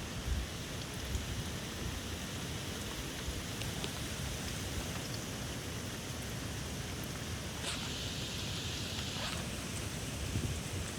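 Heavy rain in a squall, a steady hiss, with gusty wind buffeting the microphone in low rumbles. A louder wash of rain hiss swells up about eight seconds in.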